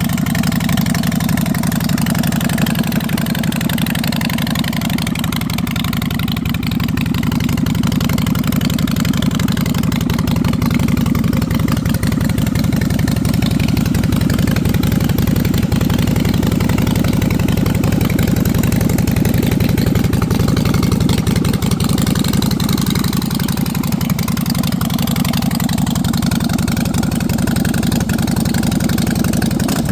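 Harley-Davidson Softail Slim's air-cooled V-twin idling steadily through aftermarket straight pipes, still warming up after a cold start.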